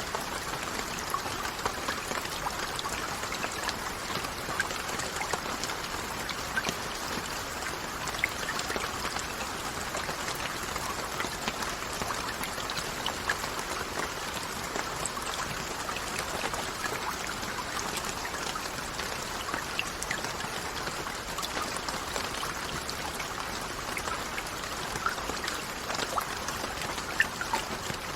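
Steady rainfall: a continuous even hiss of rain with many separate drop impacts ticking through it, a few sharper drops standing out near the end.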